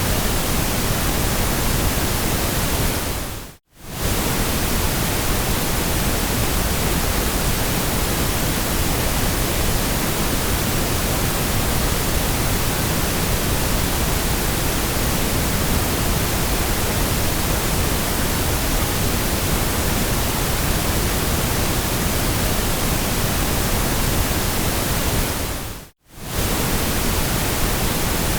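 Steady hiss of white noise, even across low and high pitches. It fades out to silence and straight back in twice, briefly, about four seconds in and again near the end.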